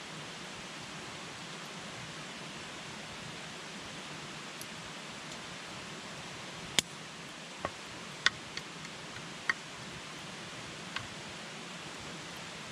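Wood campfire burning with a steady hiss, and a handful of sharp crackling pops from the burning wood in the second half.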